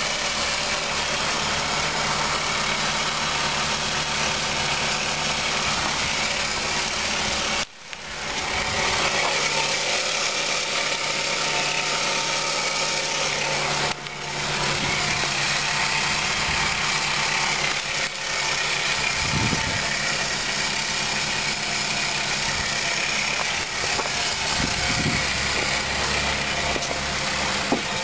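2001 Ford Focus wagon's 2.0-litre four-cylinder Zetec engine idling steadily. The sound briefly drops out a few times.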